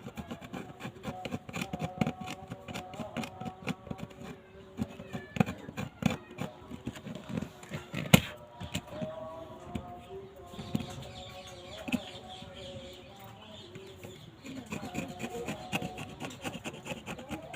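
Irregular scraping and rubbing, with small taps, as old glue is cleared from the phone's frame; one sharp click about eight seconds in.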